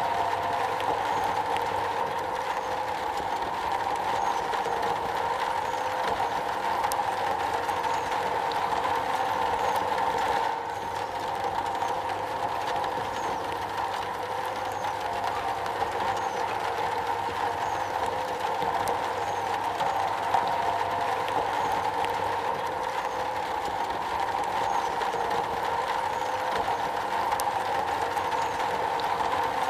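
Steady rain pattering on a metal roof: a dense, even hiss of many small drop ticks.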